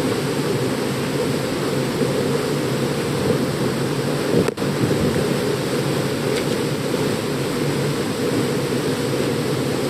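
Waterfall pouring: a steady, deep rushing noise, broken by a momentary dropout about halfway through.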